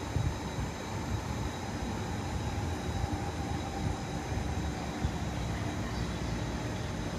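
A train running on the rails: a steady rumble with faint, thin, steady tones above it.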